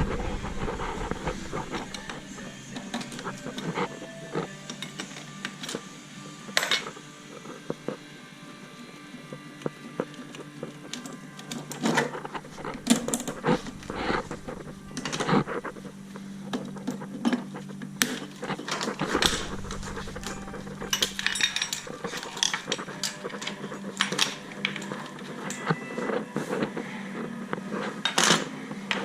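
Hand tools and metal parts clinking and knocking during engine-removal work: irregular sharp clicks and clanks, some ringing briefly, over a steady low hum.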